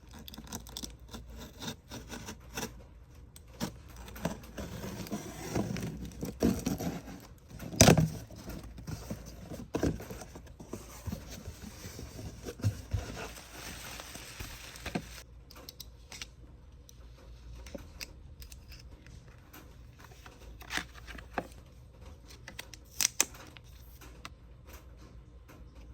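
Hands unpacking a K-pop photocard set: plastic packaging rustling and crinkling, with scattered taps and clicks as the cards and wrappers are handled. The loudest is a single knock about 8 s in, and the handling grows sparser after about 15 s.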